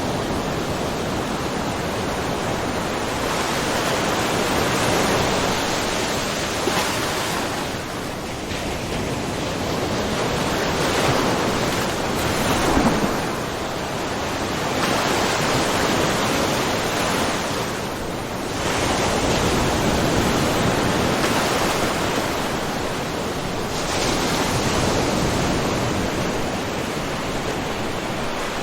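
Small ocean waves washing and splashing against a rocky shore, a continuous rushing wash that swells and eases every few seconds, with a brief sharper splash about halfway through.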